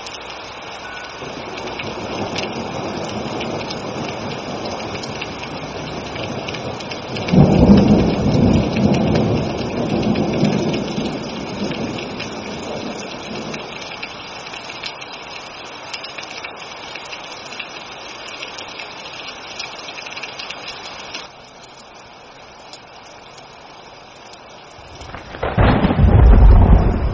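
Steady rain with thunder: a sudden loud thunderclap about seven seconds in rumbles and fades over several seconds, and another loud peal of thunder breaks near the end.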